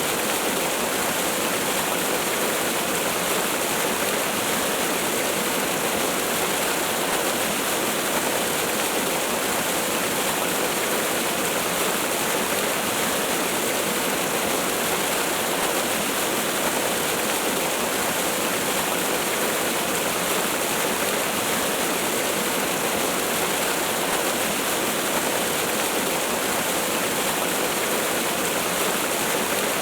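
Waterfall: a steady, unbroken rush of falling water, even in level with no separate splashes or events.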